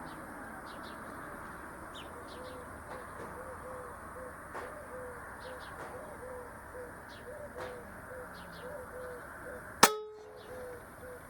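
A single sharp shot from an Air Arms S410 .22 (5.5 mm) PCP air rifle, near the end, with a brief ringing after it. Faint bird chirps come before it.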